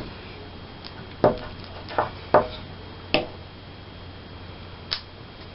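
Five short, sharp taps and clicks at irregular intervals, from craft materials being handled on a tabletop.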